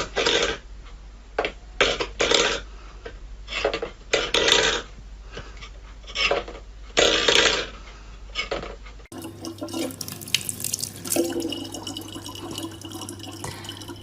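Water splashing and running in irregular bursts, as at a sink. After a cut about nine seconds in, a tap runs more steadily over a low hum.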